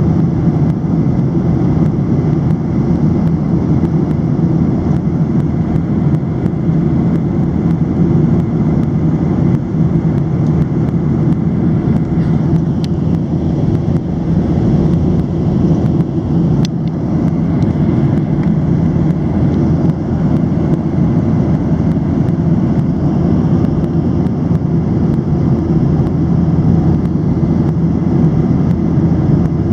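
Steady, loud engine and airflow noise inside the cabin of a Boeing 737-700 in flight, its CFM56-7 turbofans running steadily. Two faint ticks are heard about halfway through.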